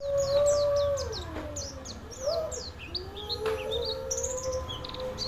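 Caged white-eye (pleci) singing a fast run of short, high, falling chirps. Under it runs a louder steady low tone whose pitch sags about a second in and then levels off again.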